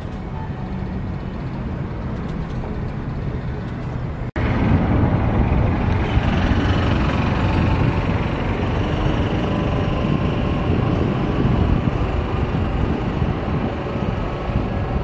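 Steady vehicle running noise with a low hum. About four seconds in there is an abrupt cut, after which the noise is louder and rougher.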